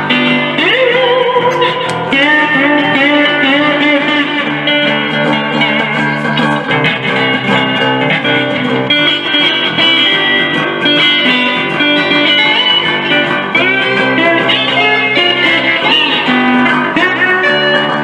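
Live country-rock band playing an instrumental break: a lead guitar solo with bending, sliding notes over the full band.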